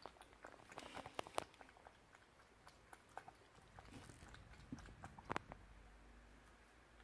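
A cat licking and eating Churu paste treat: irregular soft wet licking and smacking clicks, with the sharpest ones about a second in and again about five seconds in.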